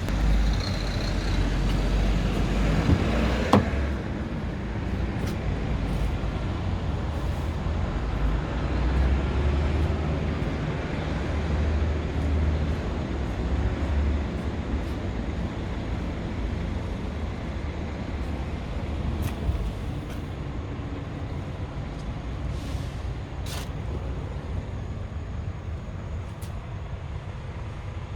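Scania R tractor unit's diesel engine running with a steady low drone, and a sharp click about three and a half seconds in.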